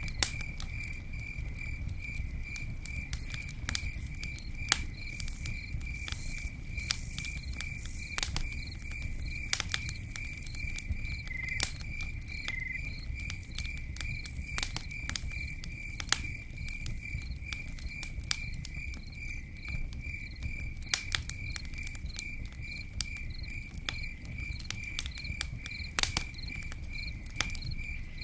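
Campfire burning with a low rumble and scattered sharp crackles and pops. A cricket chirps steadily throughout, a high pulsed trill repeating about three times a second.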